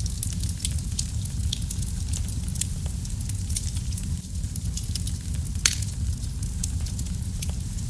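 Wood fire burning in a fireplace: a steady low rumble of the flames with frequent sharp crackles and pops scattered throughout, the loudest pop about six seconds in.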